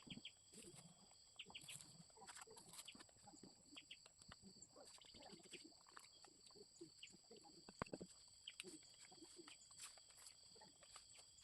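Near silence: faint room tone with scattered soft clicks and small low sounds.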